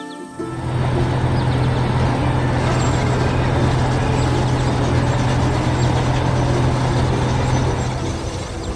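A heavy vehicle's engine running steadily with a deep hum. It starts about half a second in and cuts off near the end.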